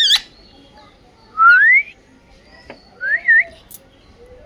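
Parrot whistling: two clear rising whistles about a second and a half apart, the second ending in a quick wavering turn, after a short chirp at the very start.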